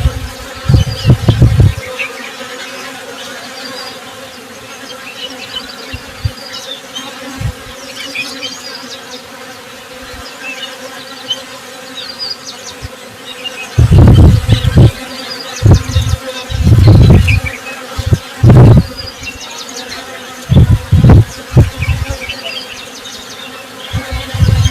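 Honey bees buzzing in a steady drone, with small birds chirping high above it. Loud low rumbling bursts come and go, at the start and again several times from about halfway through.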